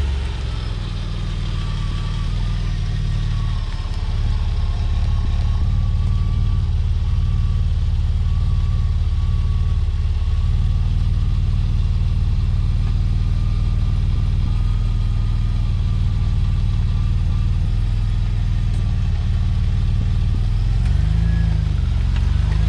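Car engine running with a steady low drone and a faint, thin whine above it. The pitch shifts and rises briefly near the end.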